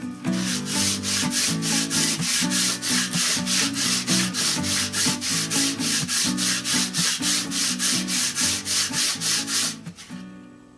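A metal plate being rubbed flat by hand on an abrasive: rhythmic back-and-forth strokes, about four a second, that stop about ten seconds in. Background music plays underneath.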